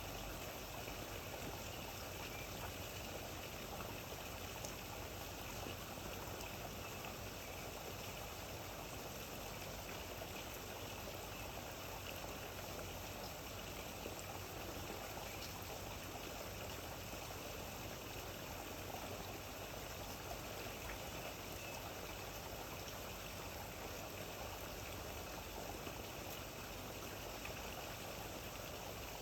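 Steady rain falling: an even hiss of running water with a few faint drop ticks.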